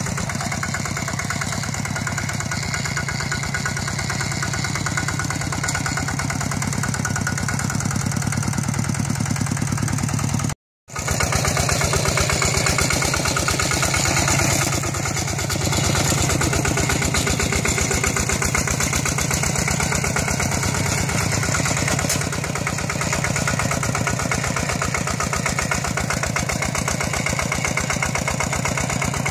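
Walking tractor's single-cylinder diesel engine running steadily with an even, rapid beat. It drops out for a moment about ten seconds in, then comes back a little louder for a few seconds.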